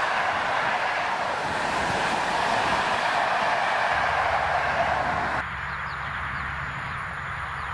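Steady rolling noise of a passenger train's coaches on the rails as the end of the train passes and moves away. About five seconds in it cuts abruptly to a quieter, low steady rumble.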